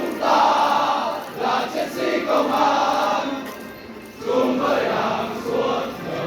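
A large group of voices singing in unison, in phrases broken by short pauses, as from a marching parade contingent singing together.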